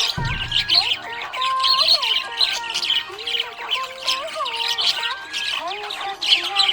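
Budgerigars chattering and squawking in rapid high chirps, over a simple repeating tune of held and sliding notes. A short low thump comes just at the start.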